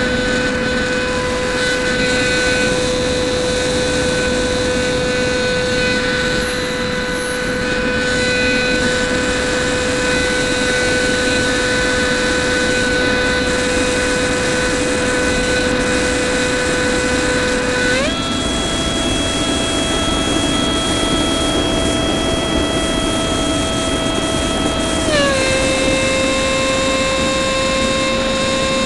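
Starmax 70mm electric ducted fan of an RC F-16 jet, heard from an onboard camera: a steady high whine over rushing air. The whine steps up in pitch as the fan speeds up about 18 seconds in, then drops back about seven seconds later.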